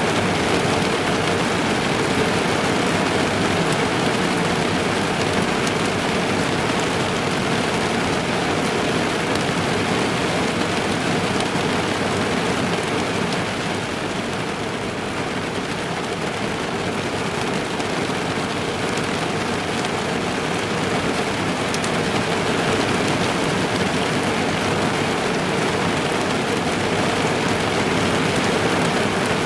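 Rain falling on a car's roof and windows, heard from inside the car: a steady, dense patter that eases slightly about halfway through.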